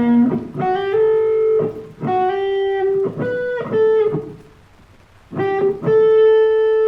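Music: a plucked guitar plays short melodic phrases, pauses briefly partway through, then holds a long ringing note near the end.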